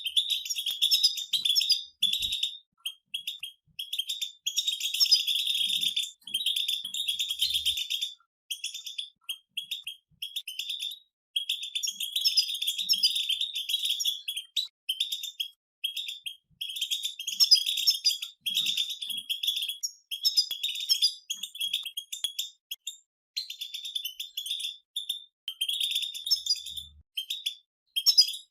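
A group of European goldfinches twittering: rapid, high, buzzy chatter in phrases of a second or two, broken by short pauses.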